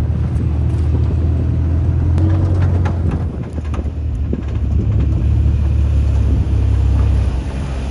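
Pit bike being ridden: a steady, heavy low rumble of engine and wind buffeting on an action camera's microphone, easing off near the end.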